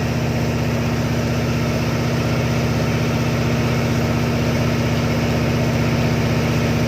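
Tugboat engine running steadily under way: an even, deep drone with a steady hum over it.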